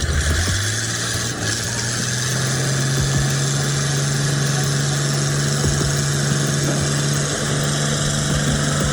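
An engine running, its pitch rising over the first two or three seconds and then holding steady.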